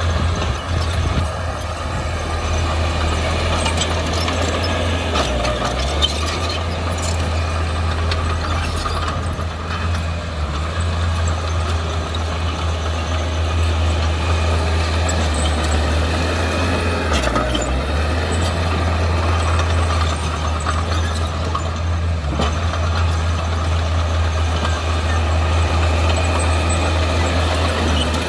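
Heavy-equipment diesel engine running steadily under load, with a constant low drone and a few short sharp knocks, the sharpest about six seconds in.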